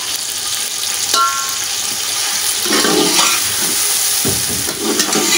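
Hot oil sizzling in a metal pot as cubes of raw potato fry with onions and tomatoes, with a spoon stirring through the mixture.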